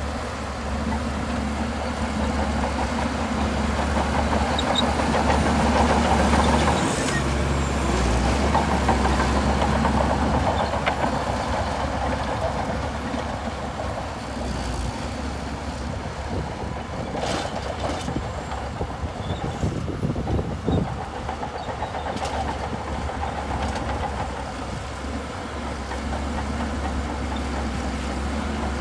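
Shantui DH17C2 bulldozer's diesel engine running steadily under load, swelling louder between about four and ten seconds in, with a few sharp clanks past the middle.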